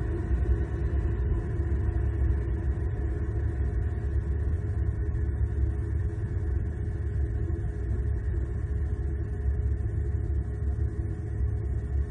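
Steady low rumble picked up by an outdoor nest-cam microphone, with no distinct events.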